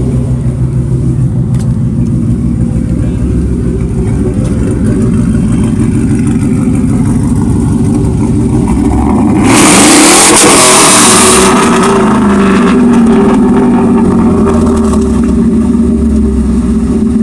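Car engine running loudly, with pitch changes as it revs. About nine and a half seconds in, a loud hissing burst lasts about two seconds.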